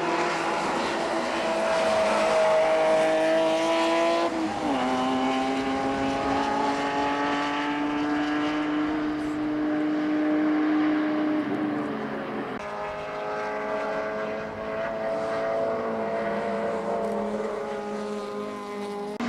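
Track cars' engines running hard on a circuit: one engine's note climbs steadily under full throttle, drops sharply with an upshift about four and a half seconds in, climbs again, and drops with another upshift about twelve and a half seconds in before pulling up once more.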